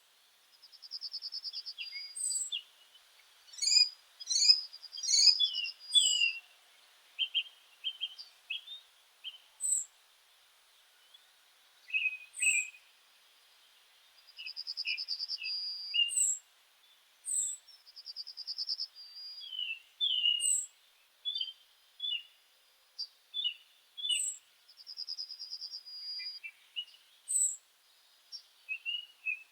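Meadow birds singing. One bird repeats a short song about every four to five seconds, high sharp notes followed by a fast, even trill of about a second, while other birds chirp in short, lower phrases between.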